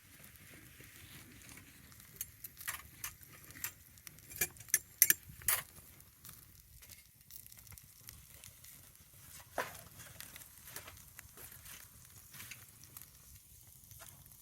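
Campfire crackling: irregular sharp pops and snaps over a low steady background, a dense run of them between about two and six seconds in and a single louder pop near ten seconds.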